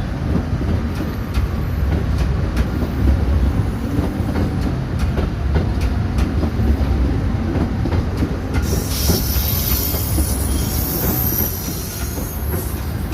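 KA Sawunggalih passenger train rolling out of the station with a heavy low rumble, its wheels clicking over the rail joints. About nine seconds in, a high-pitched wheel squeal sets in.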